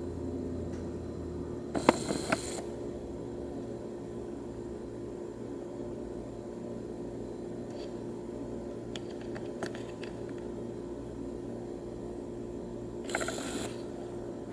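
A steady low hum, with brief rustling clicks about two seconds in and again near the end.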